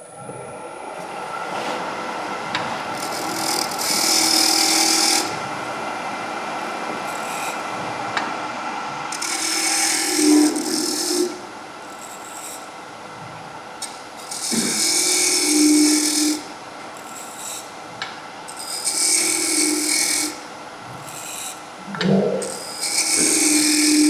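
Wood lathe running steadily while a turning tool cuts a wooden jam chuck in about five short passes, each a burst of scraping hiss lasting a second or two.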